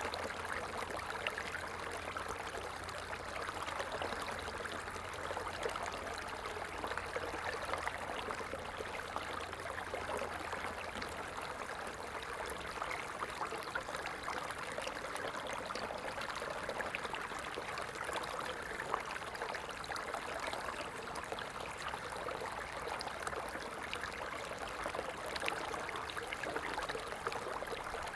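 Stream water running, a steady, even rush and trickle with no pauses or changes.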